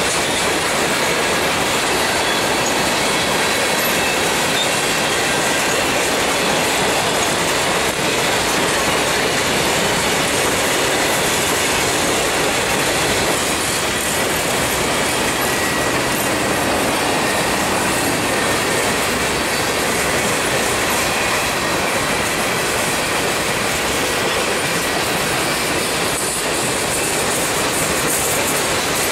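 Empty coal hopper cars of a Norfolk Southern freight train rolling past, a steady rumble and rattle of steel wheels on the rails, with thin high ringing tones from the wheels over it.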